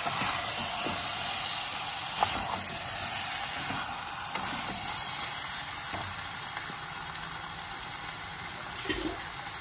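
Chicken pieces frying in oil in a stainless steel pot, a steady sizzling hiss as they are stirred with a spatula, with a couple of sharp knocks of the spatula against the pot, the loudest about two seconds in and another near the end.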